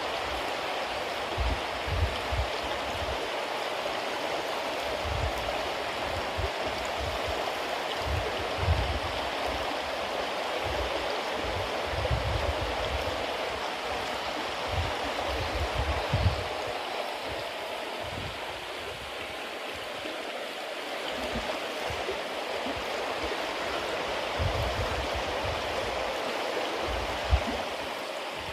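Bonfire of wet cedar leaves burning with a steady hiss and scattered crackles, a few sharper pops standing out. Low rumbles come and go underneath.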